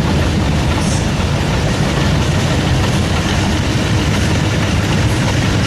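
Modified pulling tractor's engine running hard at full throttle under load, a loud, steady roar with a deep low hum and no change in pitch.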